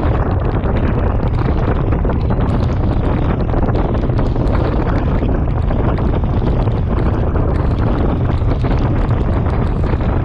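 Wind buffeting the microphone of a camera on a bicycle riding in heavy rain: a steady, loud rumble with a hiss of rain and wet road over it.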